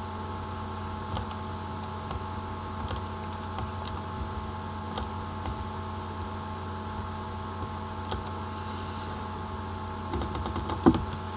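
Scattered clicks of a computer keyboard and mouse, with a quick run of keystrokes near the end, over a steady mains hum.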